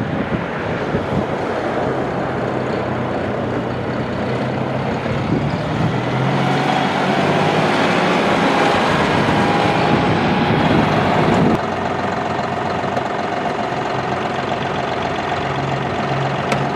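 John Deere 5055E's three-cylinder turbo diesel running steadily. It gets louder and busier from about a third of the way in, then drops back suddenly about two-thirds through.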